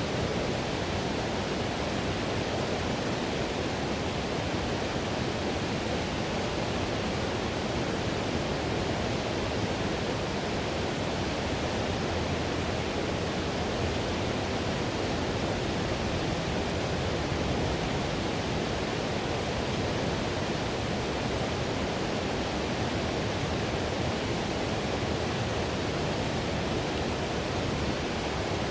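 Steady rushing of river whitewater, a constant wash of water noise heaviest in the low-to-mid range, with no change throughout.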